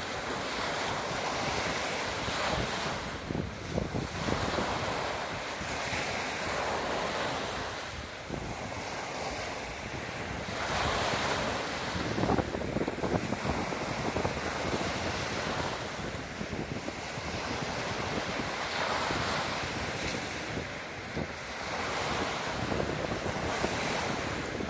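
Baltic Sea surf breaking on a sandy beach in rough weather, waves swelling and washing in every few seconds, with wind buffeting the microphone.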